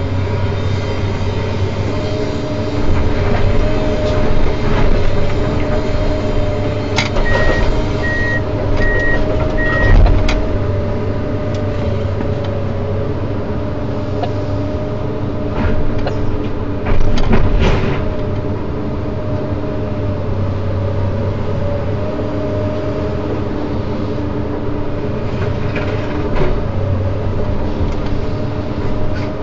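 Komatsu PC210 hydraulic excavator running steadily under load, with sharp metallic knocks and clanks, the loudest about seventeen seconds in. A short run of four high beeps sounds about seven seconds in.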